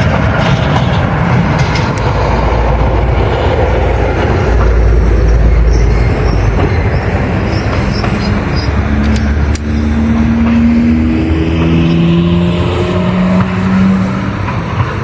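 A train running close by, with loud rail and running-gear noise and a deep rumble. In the second half a set of steady tones comes in and slowly rises in pitch, then the noise starts to ease near the end.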